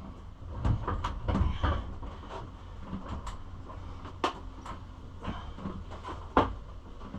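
Irregular clicks and knocks of plastic body panels being handled and pressed into place on a Kawasaki KLX110 pit bike, with a cluster of heavier knocks in the first two seconds and two sharp clicks later on.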